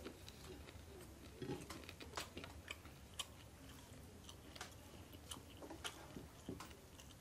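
An elderly man chewing chicken biryani: faint wet mouth smacks and clicks at irregular intervals.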